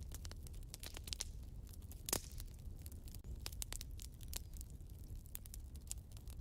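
Wood fire burning in a fireplace: irregular crackles and snaps over a low steady rumble of flame, with one louder pop about two seconds in.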